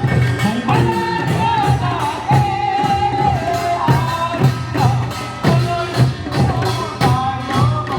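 Korean folk song performance: a voice holding long, wavering notes over a steady percussion beat.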